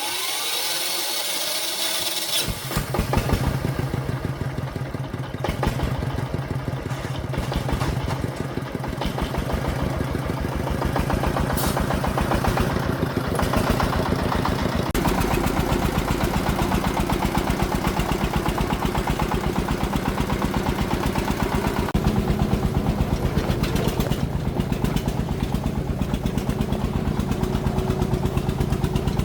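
Công nông farm vehicle's single-cylinder diesel engine. A rising whine comes first, then from about two and a half seconds in a rapid, steady chugging that keeps running.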